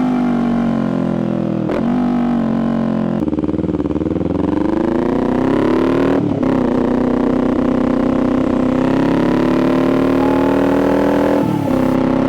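Kawasaki Ninja 400's parallel-twin engine and exhaust under way: the revs sag, then climb and level off through gear changes, with short breaks in the engine note about two, six and eleven and a half seconds in.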